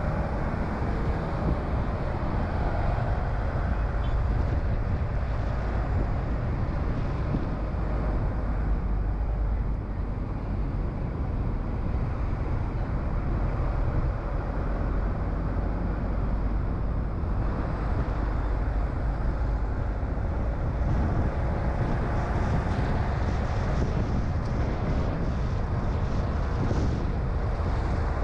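A car driving steadily: constant low road and engine rumble with some wind noise and a faint engine hum that shifts a little in pitch.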